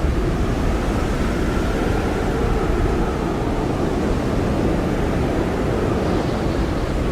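Blizzard wind blowing hard and steadily: a deep rushing roar with a faint howl that drifts slowly down in pitch.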